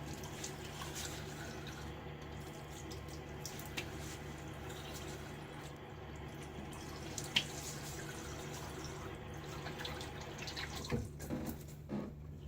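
Tap water running into a bathroom sink, with splashing as the face is half-rinsed between shaving passes; the flow stops about eleven seconds in, leaving a few small splashes and drips.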